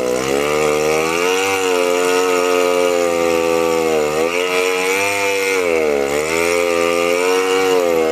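Chainsaw engine running hard, its pitch dipping and recovering every one to two seconds as it labours in a cut.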